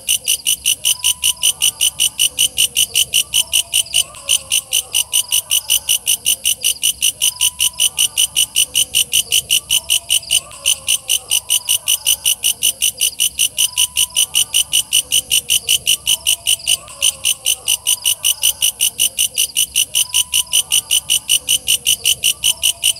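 Walang kecek (belalang kecek, a bush cricket) calling: a loud, fast, even train of high-pitched chirping pulses, broken for a moment three times. Fainter, lower chirping calls sound behind it.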